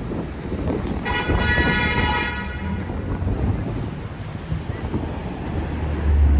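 Gusty wind buffeting the microphone over street traffic rumble. About a second in, a vehicle horn sounds once, a steady tone lasting about a second and a half.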